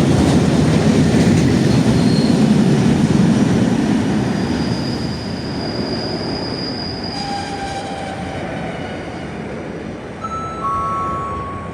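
A train rolling along the platform: a loud low rumble that eases off after about four seconds. Several steady wheel squeals ring out in the second half, one high and drawn out, then shorter, lower ones near the end.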